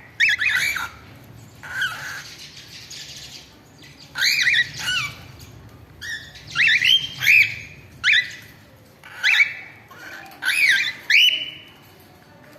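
Cockatiels calling: about ten loud, short calls, each rising and then falling in pitch, coming singly or in quick pairs and threes with pauses between.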